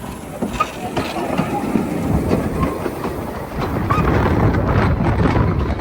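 Narrow-gauge train running on the rails, with wheels clicking over the track, growing louder about four seconds in.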